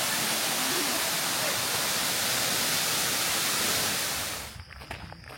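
Waterfall rushing, a steady even roar of falling water that cuts off abruptly about four seconds in.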